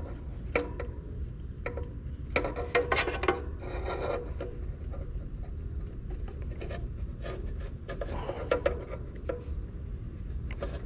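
Hands working on an air-conditioning unit's capacitor and wiring with tools: rubbing and scraping with scattered short clicks and light metal clinks, over a steady low hum.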